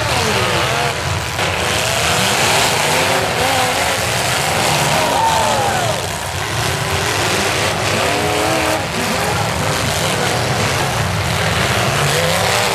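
Several demolition derby cars' engines running and revving up and down together, loud and continuous.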